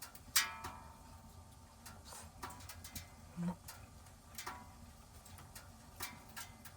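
Scattered light clinks and taps of tableware while eating, a few of them ringing briefly, with the loudest about half a second in and another near the middle.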